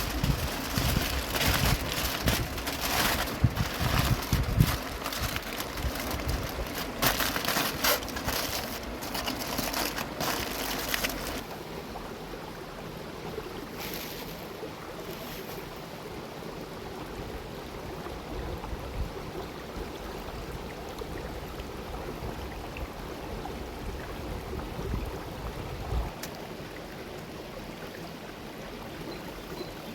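River water running steadily. For roughly the first third there are also louder, irregular close crackles and knocks over it, which then stop.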